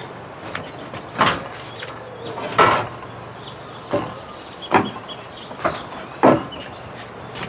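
A series of irregular knocks and scraping thuds, about six over several seconds, with quiet between them.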